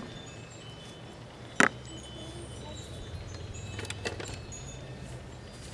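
A sharp metallic clink about a second and a half in, then a few lighter clinks around four seconds, over a faint low steady hum.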